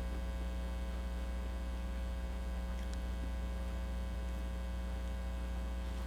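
Steady electrical mains hum at one constant low pitch, unchanging throughout.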